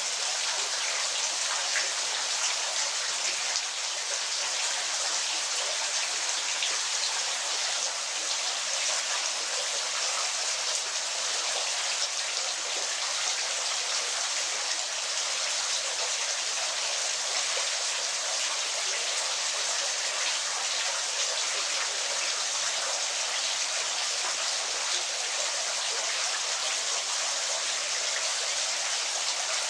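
Waterfall's falling water splashing steadily, an even hiss with a fine spatter of drops and no low rumble.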